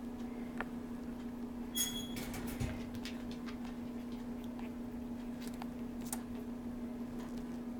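Young puppies stirring in a whelping box: faint scratches and clicks, with one brief high squeak about two seconds in, over a steady low hum.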